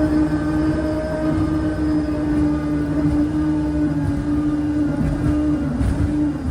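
Engine of a jet-powered boat running at a steady pitch under way, a loud drone with a low rumble beneath it, dipping briefly near the end.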